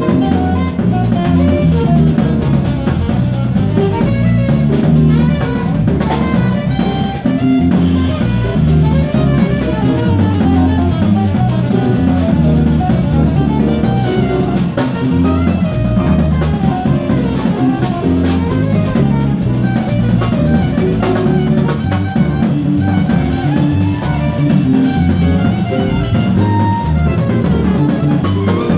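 Live jazz: a bass playing a moving line of low notes over a drum kit, with rimshots and cymbals, played steadily throughout.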